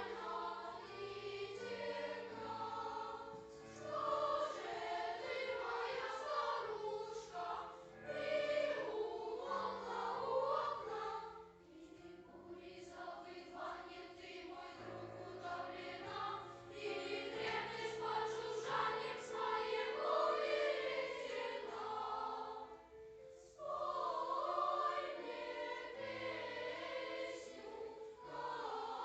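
Choir singing in sustained phrases, with two brief breaths between phrases, about twelve seconds in and again near twenty-three seconds.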